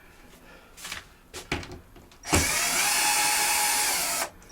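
A power drill starts a bit over two seconds in and runs at a steady speed for about two seconds, then stops. A few light knocks come before it.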